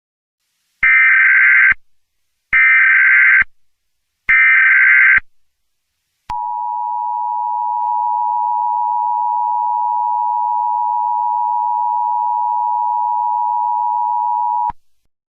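Emergency Alert System tones: three warbling digital header bursts of about a second each, then the steady two-tone attention signal held for about eight seconds before cutting off sharply.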